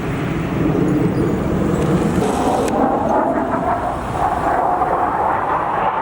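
Fighter jet engine noise during a low pass, loud and continuous. The deep rumble gives way to a higher-pitched rushing noise about halfway through.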